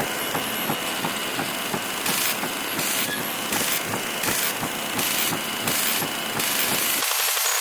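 Television static from a poor signal: a loud, steady hiss with a crackling buzz underneath. From about two seconds in, the upper hiss swells in regular pulses about one and a half times a second. Near the end the low crackle cuts out, leaving only hiss.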